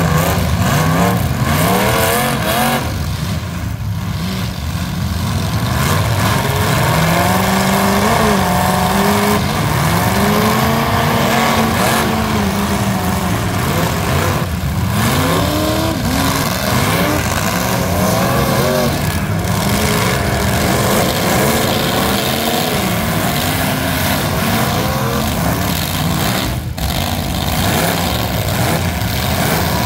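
Engines of several full-size demolition derby cars revving hard, their pitch rising and falling again and again as the cars accelerate and back off.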